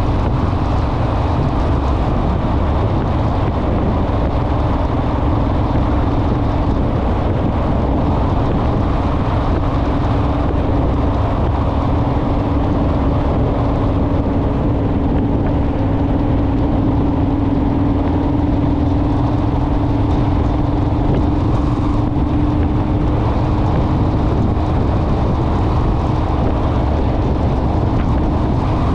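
Honda Rebel motorcycle's parallel-twin engine running at a steady cruise under heavy wind rush on the microphone, its note holding one even pitch.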